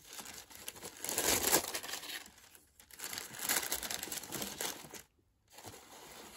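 Packaging crinkling and rustling as it is handled, in two long spells with a short lull between them, then a gap and a fainter rustle near the end.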